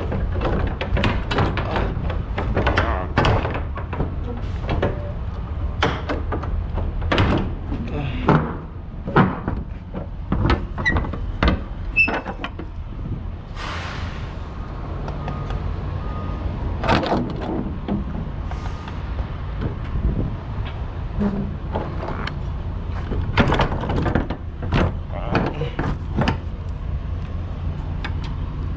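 Steady low engine rumble with many irregular knocks and clunks over it, coming thick and fast at first and more spaced out later on.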